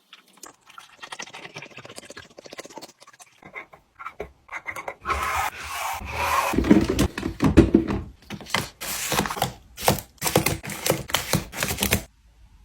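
Items being handled while a mini fridge is restocked: rubbing and scraping for several seconds, louder about halfway, then a quick series of knocks and clatters until shortly before the end.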